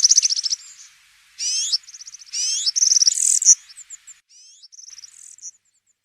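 European serin singing its fast, very high-pitched jingling song in several bursts of rapid trills and short rising notes. The song stops about half a second before the end.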